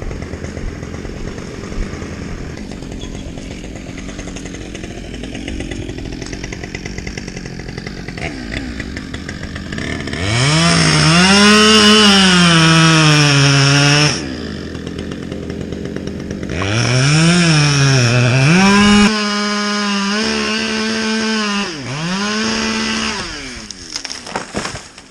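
Two-stroke chainsaw revving hard several times, its pitch climbing and dropping with each burst and held at full speed for a few seconds near the end. Before that, a lower steady engine hum runs for the first ten seconds or so.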